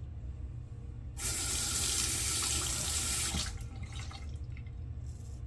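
Water running from a sink tap for about two seconds, starting about a second in, then shut off and tapering away.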